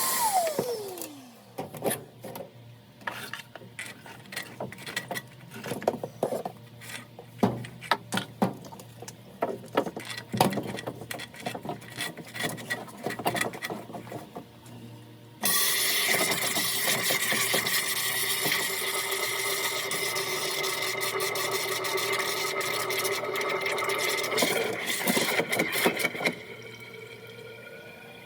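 Scattered, irregular knocks and clicks of handling work, then a small motor starts suddenly, runs steadily for about ten seconds and stops.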